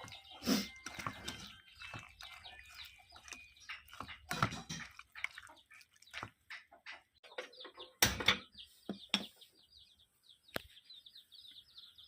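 Birds chirping, many short high calls in quick succession that grow denser in the second half, broken by several sharp knocks, the loudest about eight seconds in.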